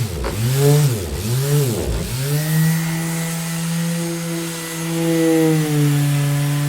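Electric orbital sander running, a steady motor hum with overtones. Its pitch sags and recovers about three times in the first two seconds, then holds steady.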